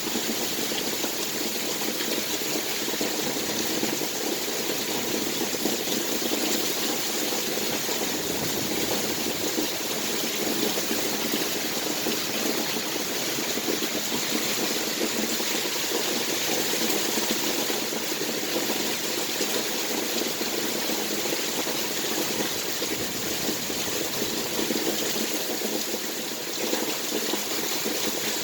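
Heavy storm rain falling steadily, an even hiss with no let-up.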